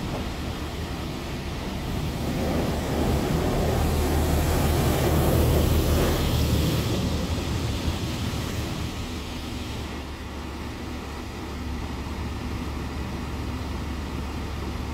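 Car wash running: a steady low machine hum under a rushing noise like spraying water, which swells for a few seconds about a third of the way in and then eases back.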